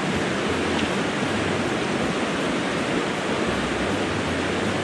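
River current rushing through a rocky gorge: a steady, even roar of fast-flowing water, loud enough to drown out voices.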